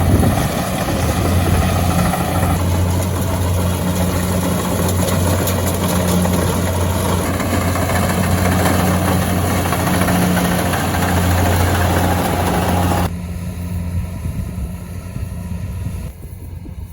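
A motor engine running at a steady low hum, which cuts off suddenly about two-thirds of the way through, leaving a quieter background.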